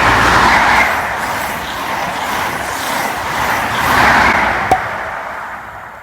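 Rushing noise of a train passing at speed, swelling about four seconds in and then fading away, with one sharp click near the end.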